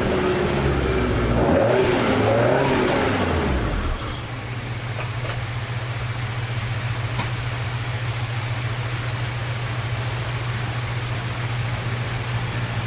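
Toyota AE86's swapped-in AE101 20-valve 4A-G four-cylinder engine being revved, its pitch rising and falling for the first few seconds. About four seconds in it drops to a steady low hum.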